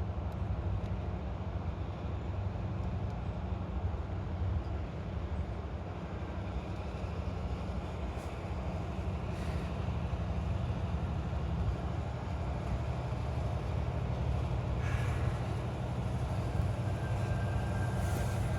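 Coal train running by with a steady low rumble. A thin, high steady tone comes in near the end.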